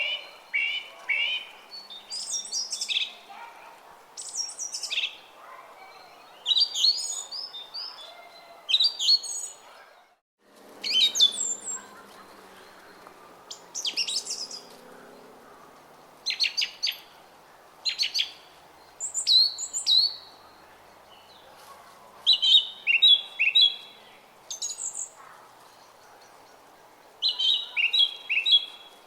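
Songbirds chirping and singing in short, quick repeated phrases every second or two, over the faint steady murmur of a brook. The sound drops out for a moment about ten seconds in.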